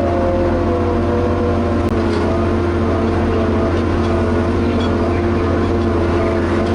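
Diesel engine of a Liebherr HS 8200 dragline running steadily at working speed: a loud, even low drone with a few steady whining tones above it that drift slightly in pitch.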